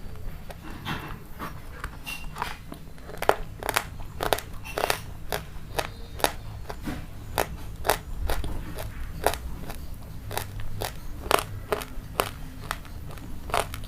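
A person biting and chewing crunchy food close to the microphone, with repeated sharp crisp crunches, roughly two a second.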